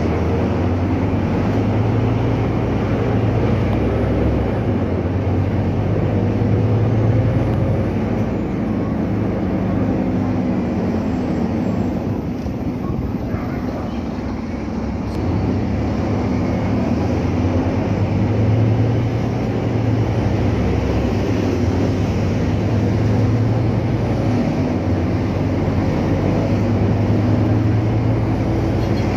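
Scania K310UA articulated bus's rear diesel engine running under way, heard from inside the cabin. Its drone rises and falls with engine speed and eases off briefly about halfway through.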